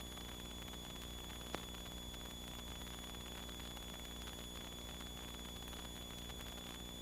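Faint, steady hiss and hum from the aircraft radio audio between transmissions, with one small click about one and a half seconds in.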